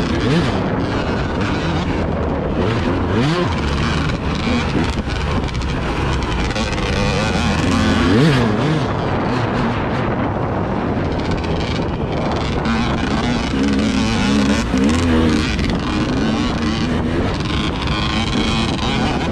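Motor vehicle engine running on the move, its pitch rising and falling a few times, under a steady rush of wind on the microphone.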